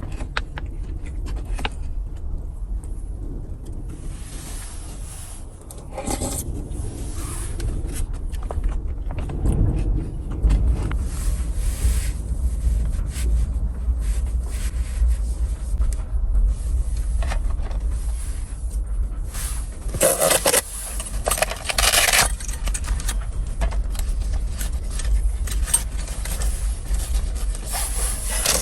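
Repeated irregular scraping and rubbing over a steady low rumble, with the loudest scrapes about two-thirds of the way through.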